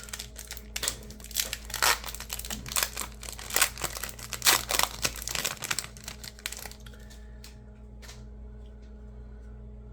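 Wrapping of 2025 Bowman baseball card packaging being torn open and crinkled: dense crackling for about seven seconds, then only a few faint ticks.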